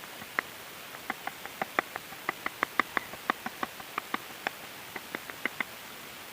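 Mallet tapping a carving chisel into wood in a quick, uneven series of sharp taps, about five a second, each with a short ring. The tapping stops a little over five and a half seconds in.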